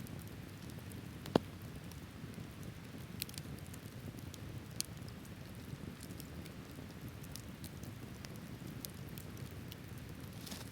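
Open wood campfire burning with a steady low rush and scattered crackles, one sharp pop about a second and a half in.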